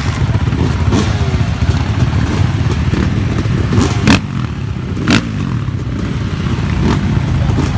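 Dirt bike engines running and revving, over a heavy, choppy rumble, with two sharp knocks about four and five seconds in.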